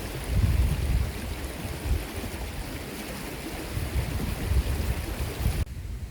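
Storm wind gusting against the microphone, with deep buffeting rumbles over a steady rushing hiss. The sound drops abruptly to a lighter rush near the end.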